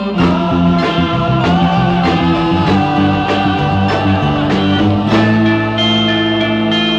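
Instrumental passage of a psychedelic-style rock song: guitar over bass with a steady beat.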